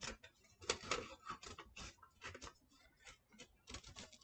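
Craft paper and tape being handled and worked by hand: faint, irregular crinkling and clicking.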